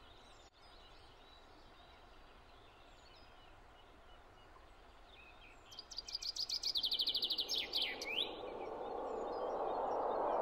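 A songbird sings one loud, rapid trilled phrase about six seconds in, ending in a quick downward sweep, over quiet outdoor ambience with faint chirps. Near the end a steady rushing noise swells louder and louder.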